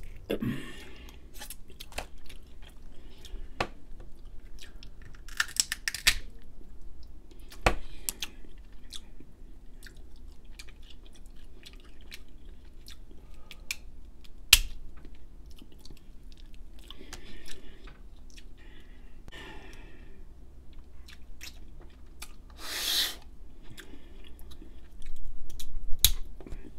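Close-up eating sounds: chewing and crunching with scattered sharp cracks as pieces of crab shell are broken apart by hand.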